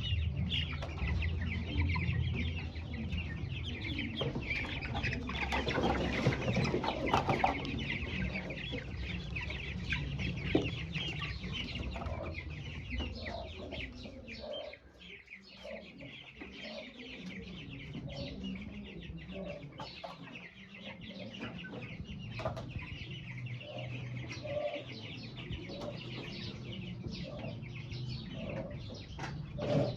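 A flock of young chicks cheeping constantly, many short high peeps overlapping, with a low rumble underneath for the first half.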